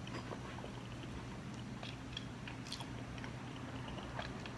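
A person chewing and eating a mouthful of noodles close to the microphone, with soft, irregular mouth clicks and smacks.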